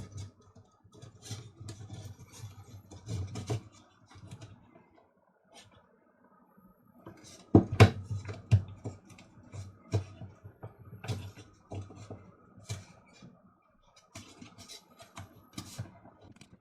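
Handling noises of a small coffee grinder being put back together: irregular clicks, knocks and rattles of plastic parts and wires being fitted, with a cluster of louder knocks about eight seconds in.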